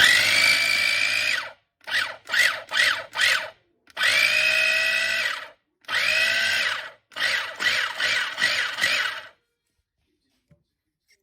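Kenwood mini chopper's electric motor being pulsed: a run of about a second and a half, four quick pulses, two longer runs, then five quick pulses, each rising in pitch as the blade spins up. It falls silent about nine seconds in.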